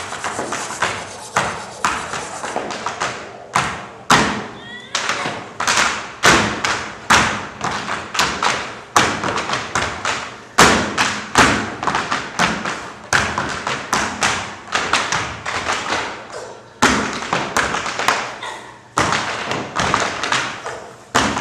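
Tap shoes striking a stage floor in fast, uneven rhythms of sharp taps and heavier stamps, with a few short breaks in the pattern.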